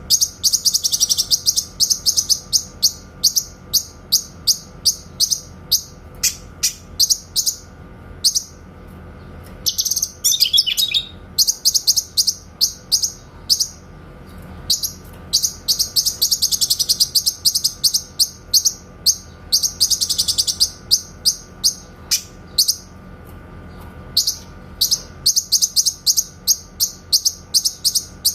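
Cucak kinoy singing its 'tembakan' song: long runs of sharp, rapidly repeated high notes, several a second, broken by short pauses and a brief warbling phrase about ten seconds in.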